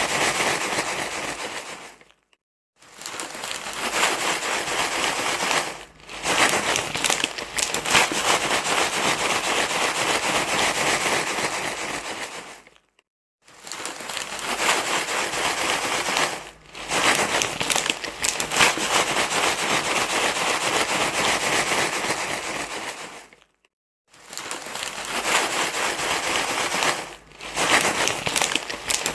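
Crinkling, rustling noise of material being crumpled and handled, in stretches of several seconds broken by three short silences and a few brief dips.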